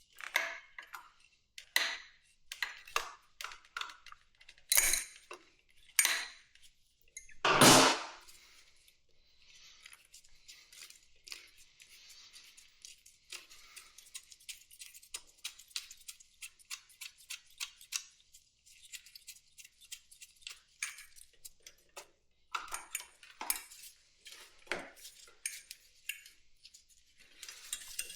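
Metal tools clinking and knocking against a motorcycle's carburetor fittings while the choke cable is being worked loose. There are scattered sharp clicks, a heavier knock about eight seconds in, and a stretch of fine rapid ticking in the middle.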